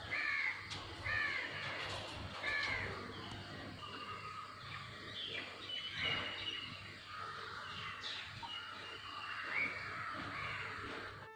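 Cockatiels calling: a run of short arched chirps about once a second at first, then a busier mix of chirps and quick falling notes.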